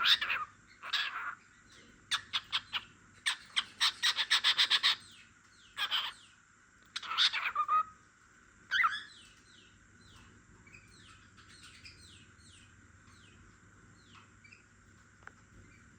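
Pet cockatiel singing: loud bursts of chattering whistles and quick runs of notes for the first eight or nine seconds, then only soft, short falling chirps.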